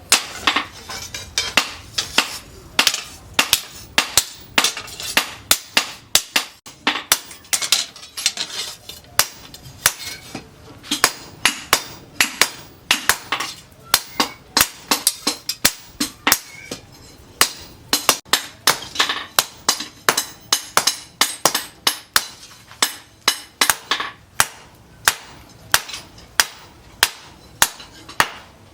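Hammer blows on steel against an anvil, forging a machete blade from disc-plough steel: sharp metallic strikes at about two a second, each with a short ring.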